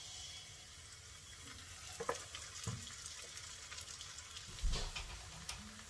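Pancake batter sizzling as it drops into hot vegetable oil in a frying pan, a steady hiss that starts as the first batter hits the oil. A few soft knocks and a low thump come partway through.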